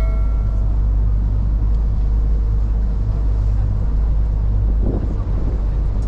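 Steady low engine rumble of a Chao Phraya river ferry under way, with water and wind noise; a chime tone dies away right at the start.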